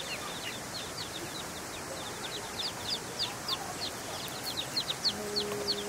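Birds chirping: a rapid run of short, high, downward-sweeping chirps, several a second, over a steady outdoor hiss. A brief low steady tone sounds for about a second near the end.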